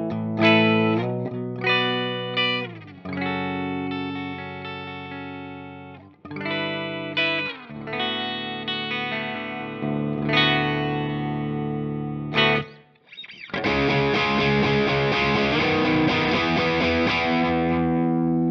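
Electric guitar, a Telecaster with two humbucking pickups, playing a series of ringing chords and notes in a fairly clean tone. After a brief drop about thirteen seconds in, it turns to a held, heavily distorted sound.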